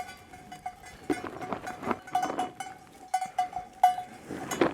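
Bells on grazing cattle clanking irregularly as the herd moves, with duller rustling sounds in between.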